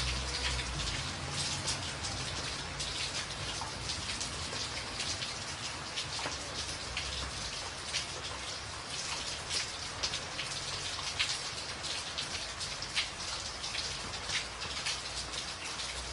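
Rain falling on a tin roof: a dense, steady patter with many sharper single drop strikes scattered through it. A faint low rumble sits under it at the start and again near the end.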